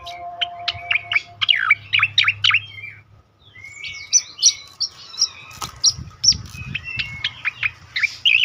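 Sooty-headed bulbul (cucak koreng) giving its rapid 'tembakan' call series: runs of sharp, quick downward-sweeping whistled notes, pausing briefly about three seconds in before starting again. A few low thumps sound around the middle.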